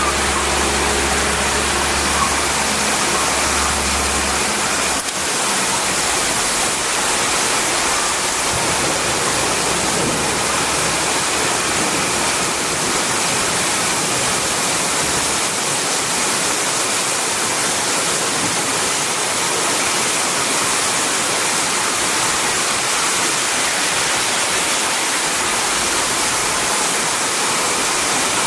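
Heavy rain pouring down in a steady, loud hiss. A low hum underneath stops about five seconds in.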